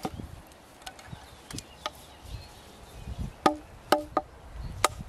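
Scattered clicks and knocks of metal camp cookware being handled. Two clinks about half a second apart near the middle ring briefly like a metal pot or cup. Wind rumbles low on the microphone underneath.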